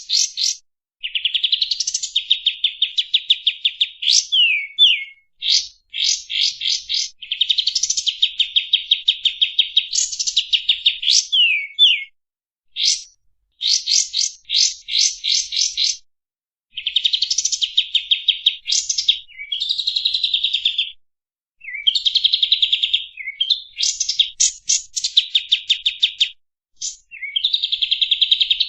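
Kapas tembak (pied triller) singing: fast trills of rapidly repeated sharp notes in runs of one to four seconds with brief pauses, mixed with short falling slurred notes.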